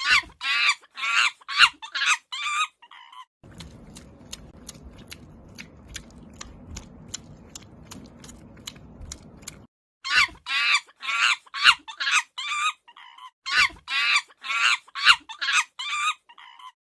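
Chickens calling: quick runs of short, high chirping calls, several a second, in bursts at the start and again in the second half. In between is a stretch of evenly spaced clicks, about three a second, over a faint low hiss.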